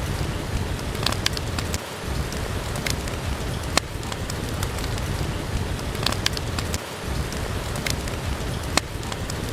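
Steady rain with a dense, even hiss, broken by scattered sharp pops and crackles from a wood fire in a fireplace.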